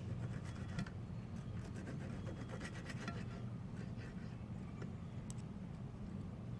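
Knife and fork scraping and clicking on a plate while cutting into a pan-fried pork chop, a run of small scrapes and ticks in the first half and one more click near the end, over a steady low background hum.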